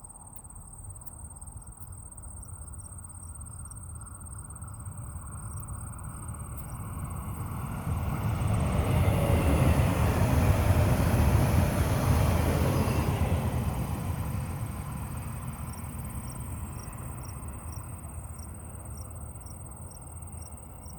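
Stadler FLIRT diesel multiple unit passing by on the track: a low rumble of engine and wheels on rails builds, peaks for several seconds in the middle, and fades away. Crickets chirp at the start and again near the end.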